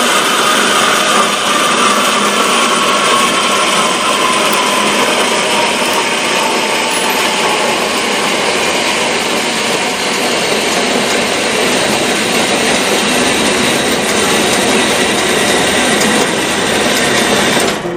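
A power tool running steadily under load, a dense, loud sound with a whine that sinks slowly in pitch over the first several seconds.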